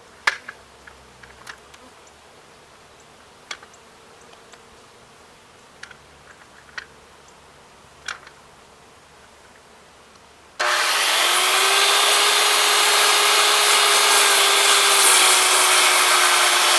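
A few light clicks and knocks of handling, then about two-thirds of the way in a power saw starts suddenly and runs steadily, cutting a piece of wood for the hive.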